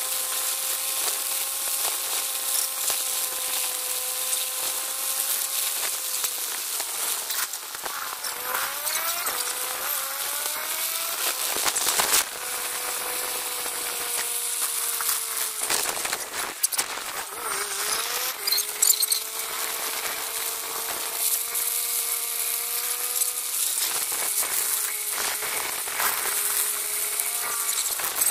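Small motorcycle engine of a tricycle running under way, its whine steady for long stretches and climbing sharply a few times as it revs between gear changes, with wind rushing past the microphone.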